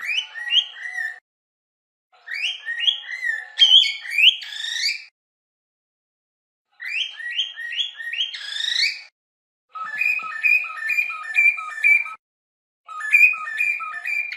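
Cockatiels whistling and chirping in five short bouts of quick repeated notes and rising whistles, with silent gaps between them.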